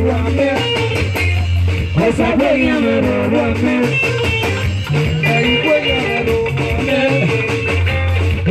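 Live band music led by electric guitar over a steady bass line and drum beat.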